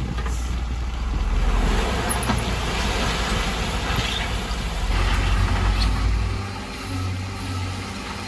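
Heavy diesel construction machinery running with a steady low rumble; it quiets about six and a half seconds in.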